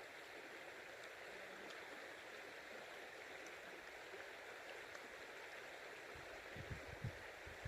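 Faint, steady rush of flowing river water. A few low thumps come near the end.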